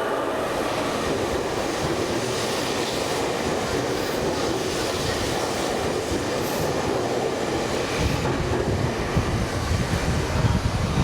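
Tobu 100 series Spacia electric express train pulling out and gathering speed, with steady running noise. A heavier low rumble and rhythmic wheel clatter come in about two-thirds of the way through as the cars roll past.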